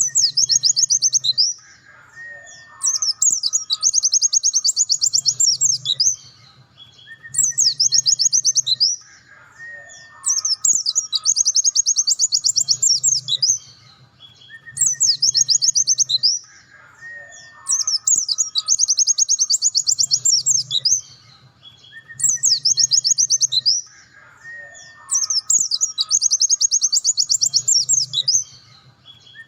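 Pleci dakun, a white-eye, singing in full trilling song: bursts of rapid, high trills a second or two long, the same run of phrases coming back about every seven seconds.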